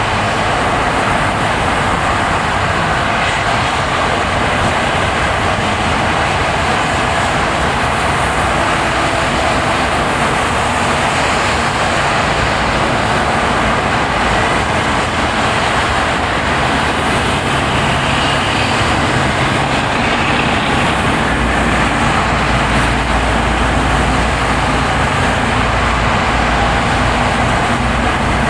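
Car driving on a snowy road: steady tyre and road noise with the engine running underneath, the low rumble growing stronger about two-thirds of the way through.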